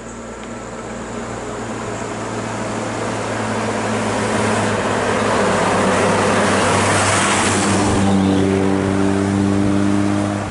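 A heavy road vehicle approaching and passing close by, its engine and tyre noise growing steadily louder, with the rush of tyres loudest about two-thirds of the way in. In the last couple of seconds a steady pitched engine drone stands out.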